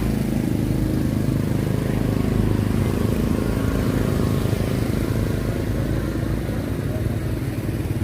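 An engine running steadily, a low even hum with no clear changes in speed.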